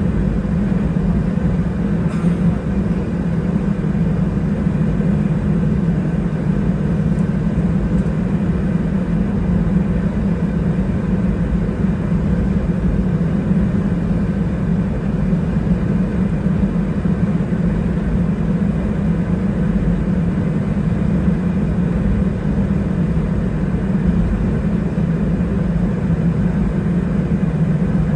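Steady cabin rumble of an Airbus A320-212 taxiing after landing, heard from inside the cabin, its CFM56 engines running at low taxi power.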